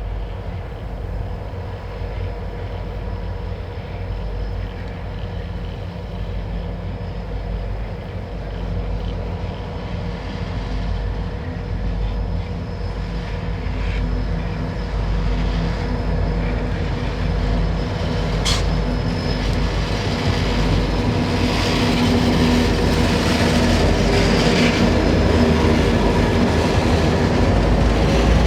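Diesel locomotive engines running with a steady throb as a train approaches, growing steadily louder. A single sharp click comes about two-thirds of the way through.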